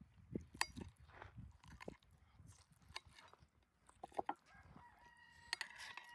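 Faint clucking of farm chickens, with scattered sharp clicks and knocks of cutlery and dishes.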